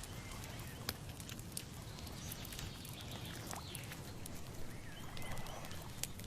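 Outdoor nature ambience: scattered sharp clicks and crackles over a low steady rumble, with a few faint bird chirps.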